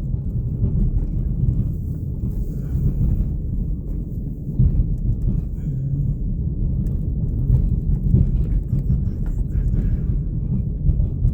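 Low, steady rumble of a car driving slowly, engine and tyre noise heard from inside the cabin, with a few small knocks.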